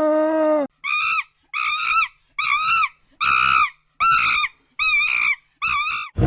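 An animal call: one lower, held call ends, then seven short, high-pitched calls follow at an even pace, each rising and falling in pitch.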